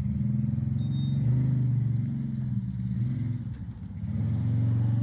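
Motor vehicle engine running steadily, its low pitch wavering slightly.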